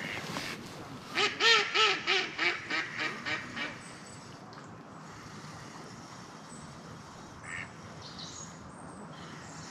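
A duck quacking: a run of about eight quacks in two and a half seconds, each fainter than the last.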